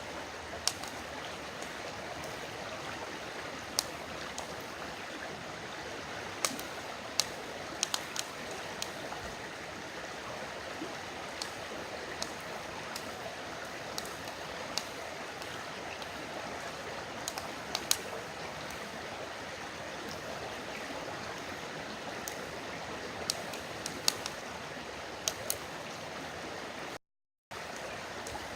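River water flowing steadily, with a wood campfire crackling over it in sharp, irregular pops. The sound cuts out completely for about half a second near the end.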